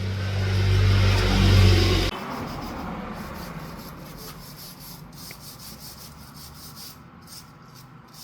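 Electric motor running with a steady mains hum and whirr, switched off about two seconds in, after which it winds down and fades.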